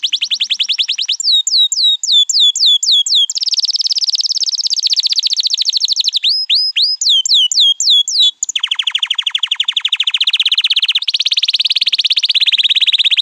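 Canary singing a long song made of rapid trills: runs of fast repeated high notes, strings of downward-sweeping whistles a few per second, and dense buzzing rolls, changing from one trill to the next every second or two.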